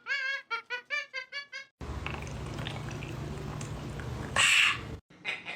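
Music of quick, high, bouncing notes that cuts off suddenly. It is followed by a steady low room hum with faint ticks, and near the end by one loud, harsh parrot squawk lasting about half a second.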